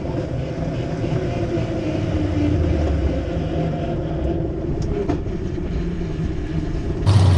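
1800-horsepower mud racing truck engine idling with a steady low rumble at the start line; the rumble jumps abruptly louder about seven seconds in.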